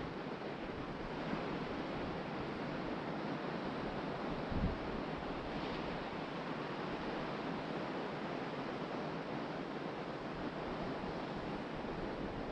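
Ocean surf washing steadily onto the beach, with wind on the microphone. A brief low bump about four and a half seconds in.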